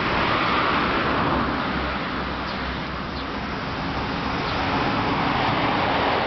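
Yamaha Axis 90 scooter's two-stroke engine running steadily, without revving.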